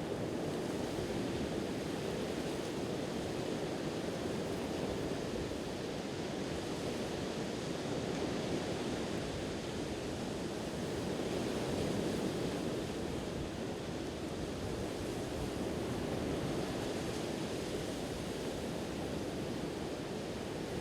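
Sea waves washing on the shore: a steady surf wash that swells and eases slowly.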